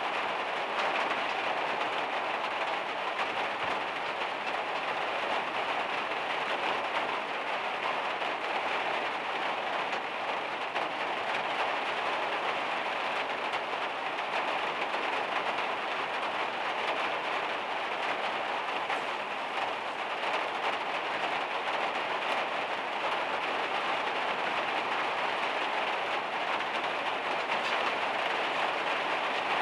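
Heavy rain drumming steadily on the metal roof of a van, a dense, even patter.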